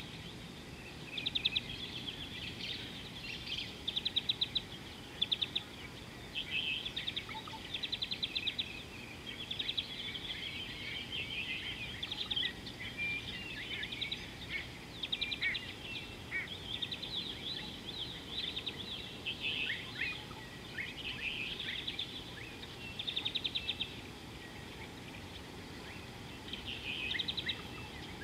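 Birds calling: repeated short, rapid trills and chirps every second or two, with a few downward-sliding whistles, over a steady low background noise.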